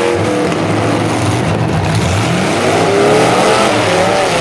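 Several full-size demolition derby cars' engines running loud together, with engines revving up and down twice over the steady low drone of the rest.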